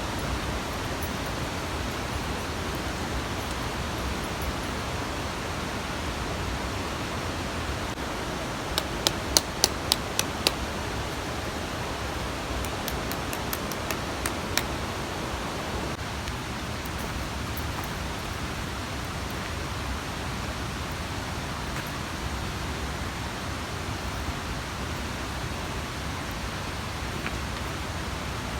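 Steady rushing of a mountain stream. About a third of the way in there is a quick run of about seven sharp clicks, and a few more clicks come a few seconds later.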